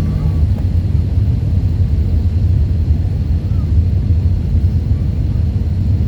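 Airbus A319 airliner's steady low rumble of engine and airflow noise during its landing.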